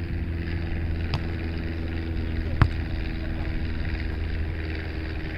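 A steady low mechanical hum with a sharp single hit about halfway through and a fainter click about a second in.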